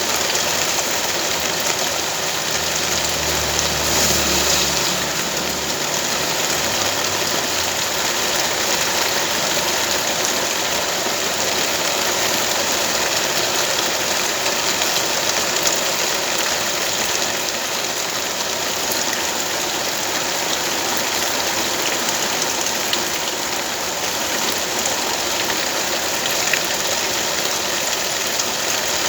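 Steady hiss of rain, with a low engine hum for a few seconds near the start.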